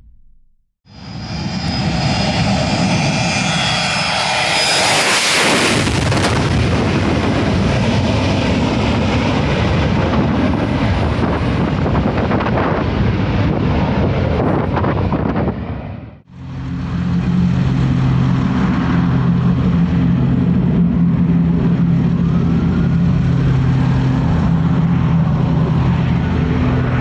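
Airplane engine noise in two stretches. First a loud rushing engine sound that swells about five seconds in, as if the plane passes close, and cuts off sharply about sixteen seconds in. Then a steady engine drone with a constant low hum.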